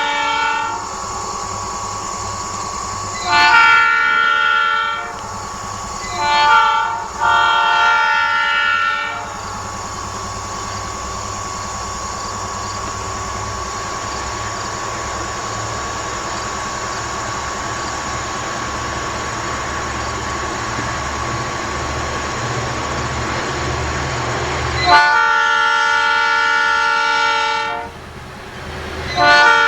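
Diesel freight locomotive's air horn blowing a chord in the grade-crossing pattern: the end of one long blast, then long, short, long. The train then rumbles past steadily for about fifteen seconds before the horn sounds again twice near the end.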